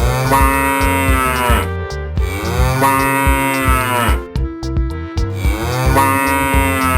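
Cattle mooing: three long moos, each rising and then falling in pitch, over background music with a steady beat.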